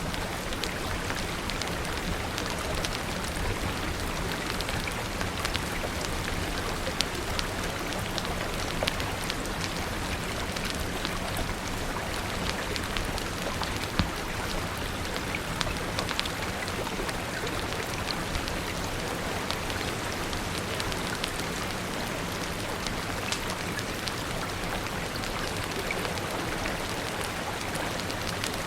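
Steady rain, with scattered sharp ticks and pops throughout and a few louder ones standing out.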